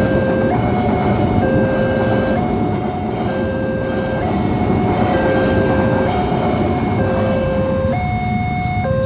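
Railway level-crossing warning alarm sounding a steady two-tone signal, alternating low and high notes about once a second, over the rumble of a passing train.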